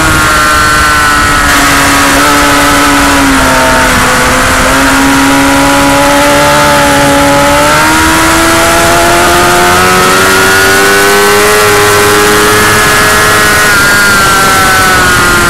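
Motorcycle engine running hard and continuously at high revs. Its pitch sags slowly, climbs again over several seconds, then eases back near the end.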